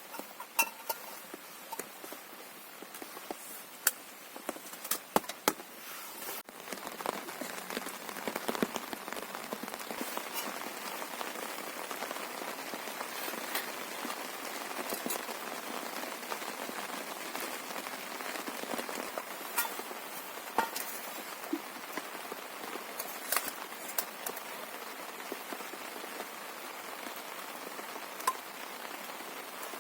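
Heavy rain falling steadily, with scattered sharp drop impacts standing out. The rain becomes louder and denser a little over six seconds in.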